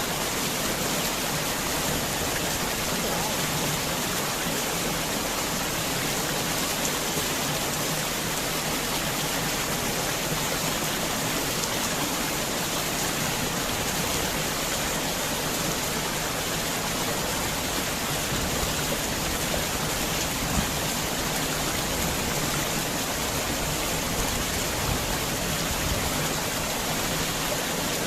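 Heavy rain falling steadily, a dense even hiss with no let-up and no thunder.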